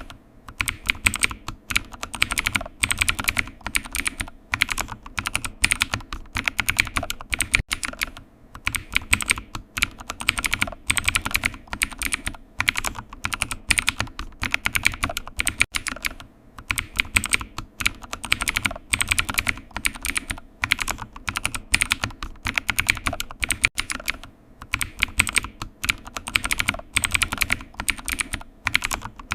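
Typing on a computer keyboard: continuous runs of key clicks, several a second, with short pauses every few seconds.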